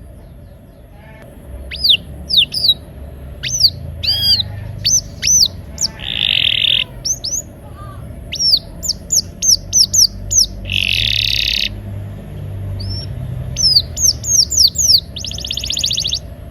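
Domestic canary singing: a run of quick, sharp whistled notes that sweep downward, broken three times by dense buzzy rolled trills, starting about a second and a half in. A low steady hum runs underneath.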